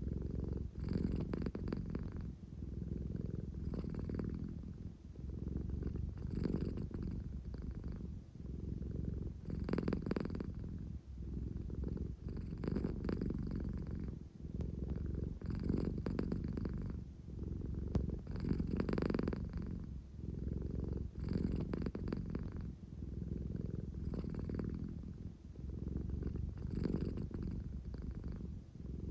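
An American Shorthair cat purring steadily up close, swelling and easing with each breath about every three seconds. It is the drowsy, contented purr of a cat that is sleepy and wants affection.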